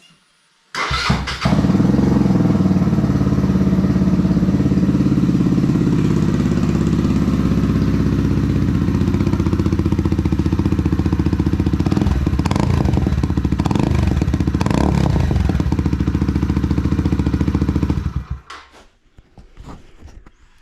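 Mutt Akita 125 motorcycle's single-cylinder engine on its standard exhaust, starting about a second in and idling steadily, then switched off near the end, followed by a few light knocks.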